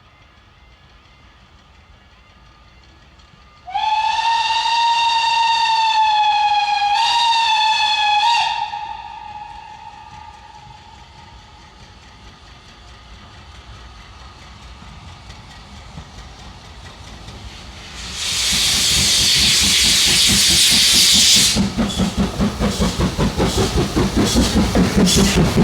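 Steam locomotive, LMS Stanier Mogul No. 2968, sounding a long whistle with a short step in pitch partway through; after a quieter spell comes a loud burst of steam hiss, then the regular beat of its exhaust as it opens up and pulls away.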